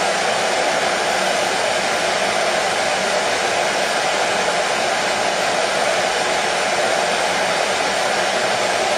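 Hair dryer running steadily at one setting, an even whooshing noise with a faint hum, used as continuous white noise to soothe a colicky baby to sleep.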